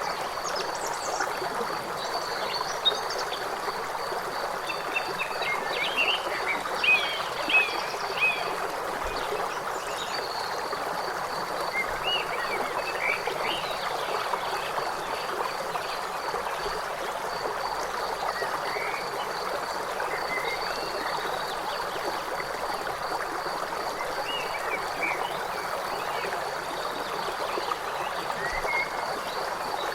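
A forest river rushing steadily, with a high, rapidly pulsed trill that runs on with short breaks, and short bird chirps scattered through, several close together about six to eight seconds in.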